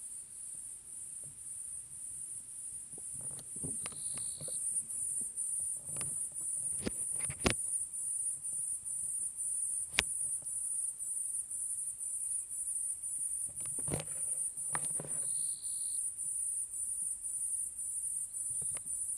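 Night chorus of crickets: a high, evenly pulsing trill that runs on without a break, with a few sharp clicks over it.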